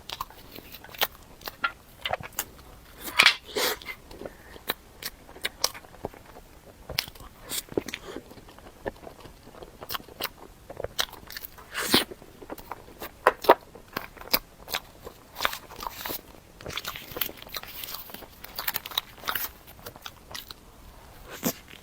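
Close-miked eating of dessert: bites and chewing, with irregular crunches and mouth clicks.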